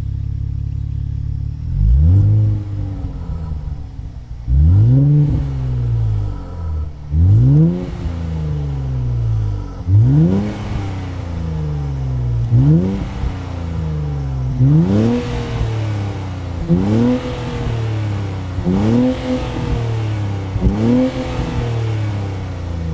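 Nissan Fairlady Z NISMO's VR30DDTT 3.0-litre twin-turbo V6 through an HKS Super Turbo Muffler exhaust, idling and then free-revved in about nine quick blips. Each blip rises sharply and drops straight back to idle, roughly every two seconds, with the later ones revving a little higher.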